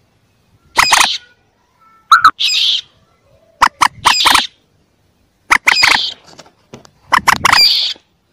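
Calls of young common moorhens, a run of short, harsh, clicking calls in about five bursts roughly every one and a half seconds. They are played back as a bird-catcher's lure call to draw moorhens in.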